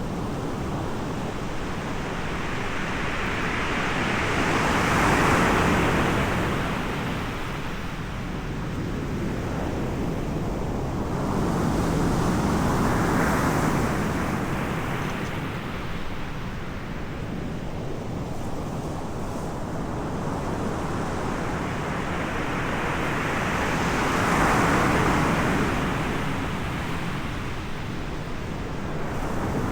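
Ocean surf: waves break and wash up the shore three times, each a rush of noise that swells and fades over several seconds, over a steady low rumble of wind on the microphone.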